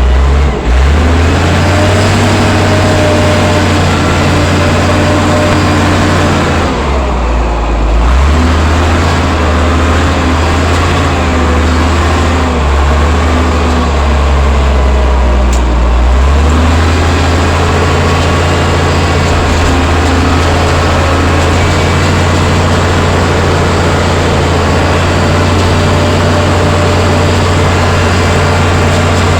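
Allis-Chalmers 940 wheel loader's diesel engine running under the operator with the cab door shut, still cold. Its note dips briefly about a quarter of the way in and shifts for several seconds as the machine works, then holds steady.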